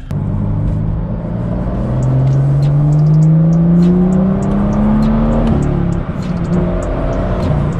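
BMW M2's turbocharged N55 inline-six pulling hard under full acceleration, its pitch rising steadily for about five and a half seconds. It drops with an upshift, then carries on at steadier revs, heard from inside the cabin.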